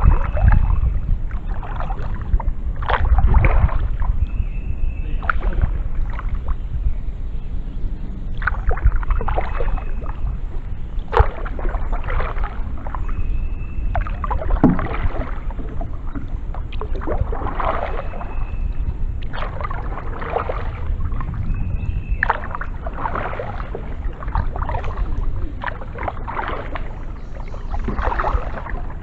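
Kayak paddle strokes dipping into and pulling through the water, a splash every second or two, over a steady low rumble. A short high squeak comes every four or five seconds.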